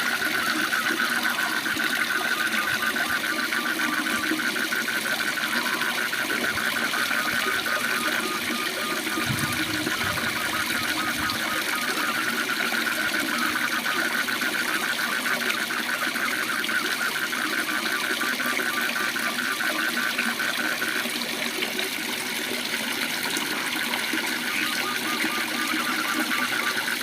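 Steady rush of a waterfall, with frogs keeping up a continuous rapid pulsing trill over it.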